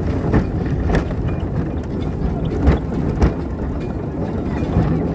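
Small narrow-gauge passenger train running, heard from aboard a carriage: a steady low rumble of the wheels on the track, with several sharp clicks and knocks from the running gear, the loudest two close together a little before the middle.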